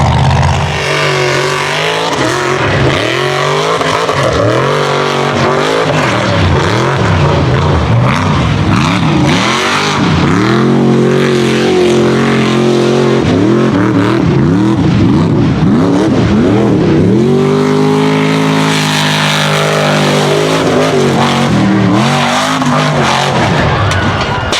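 Mega truck engine revving hard, its pitch swinging up and down many times as the throttle is opened and lifted, with one longer hold at high revs after about eighteen seconds.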